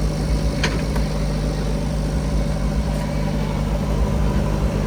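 Diesel engine of heavy farm or earthmoving machinery running steadily at low speed. A short sharp click comes about two-thirds of a second in.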